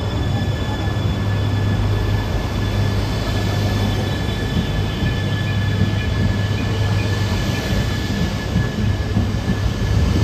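Shinkansen train sets (an E3 series 2000 coupled to an E5) at the platform: a steady low electrical hum and drone with a faint high whine held at one pitch.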